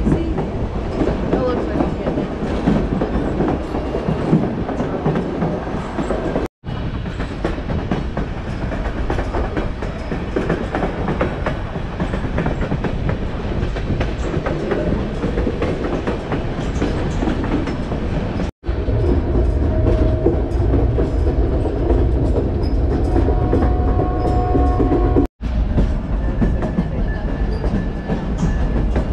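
Narrow-gauge White Pass & Yukon Route passenger train running, heard from an open car platform: a steady rumble of the wheels on the track.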